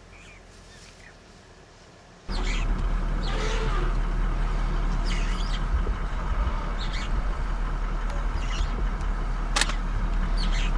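A vehicle engine idling, a steady low rumble that starts suddenly about two seconds in, with birds chirping over it.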